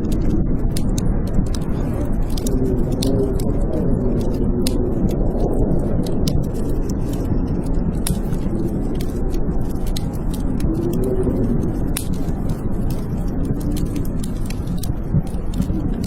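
Blizzard wind howling, a steady low rush with a moaning pitch that wavers up and down, while a wood fire crackles with scattered sharp pops.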